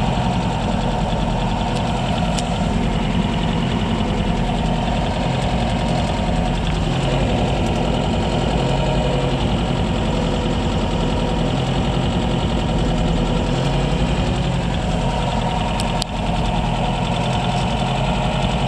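1979 MGB Roadster's 1.8-litre four-cylinder B-series engine idling steadily after a cold start, still warming up.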